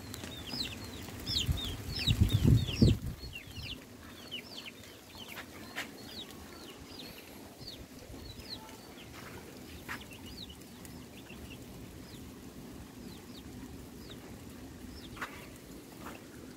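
Birds peeping: many short, high, falling chirps, thick in the first few seconds and then more scattered. A brief low rumble about two seconds in is the loudest sound.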